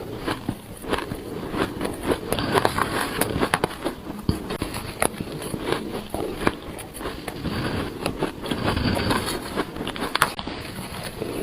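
Close-miked biting and chewing of shaved ice: dense, irregular crunching and crackling with sharp snaps scattered throughout.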